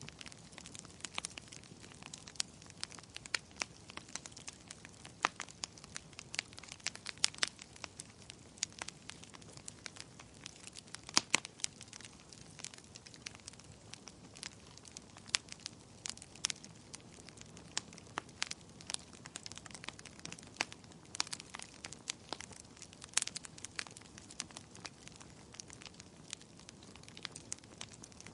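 Wood fire burning: irregular crackles and sharp pops over a soft steady hiss of flames.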